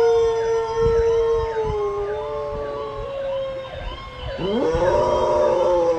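Golden retriever howling in long held notes, the first sliding slightly lower and ending about three seconds in, a second rising up about four and a half seconds in. The dog is howling along with a fire-engine siren sounding from a television.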